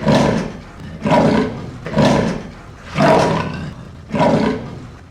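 Leopard calling: a run of five roars about one a second, each starting loud and fading away.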